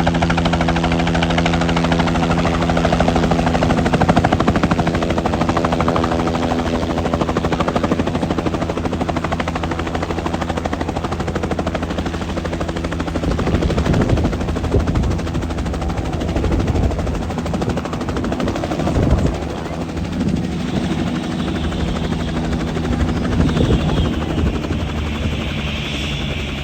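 Helicopter in flight, its rotor beating in rapid pulses over a steady engine hum. The pitch and loudness shift in the second half as it moves.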